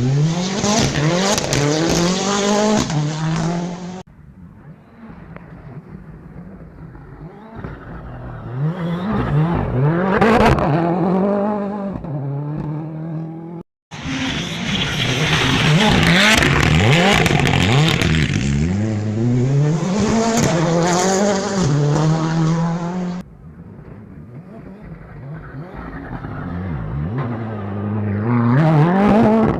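Rally cars driven flat out on a stage, engines revving hard and climbing in pitch through each gear, then dropping at every shift. A few separate passes are spliced together, and the sound changes abruptly about 4, 14 and 23 seconds in.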